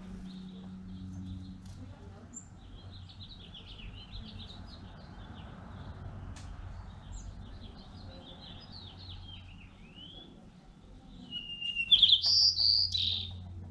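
Wild birds chirping and trilling in a chorus of short high notes, with a louder, closer burst of bird calls near the end.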